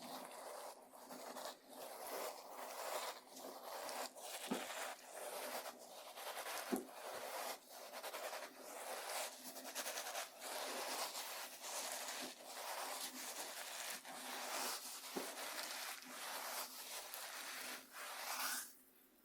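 Coarse cornmeal being scraped and rubbed across a bamboo cutting board: a gritty, scratchy sound in repeated strokes with short gaps between them, stopping abruptly near the end.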